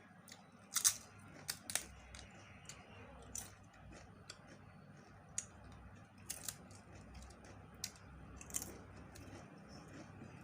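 Eating sounds from a person eating rice and curry: scattered sharp mouth smacks and clicks, the loudest a little under a second in, with fainter chewing between them.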